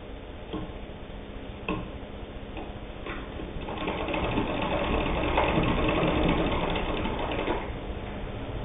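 Singer 66 hand-crank sewing machine stitching through eight layers of stretch denim, which it sews with no trouble. A couple of single knocks in the first two seconds, then a louder run of rapid stitching from about three and a half seconds in that eases off near the end.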